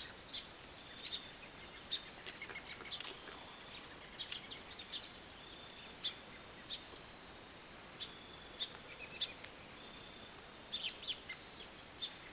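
Small birds chirping in woodland: scattered short, sharp high chirps, with a thin high note that comes and goes.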